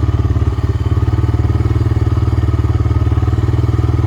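ATV (four-wheeler) engine running steadily at an even speed while being ridden.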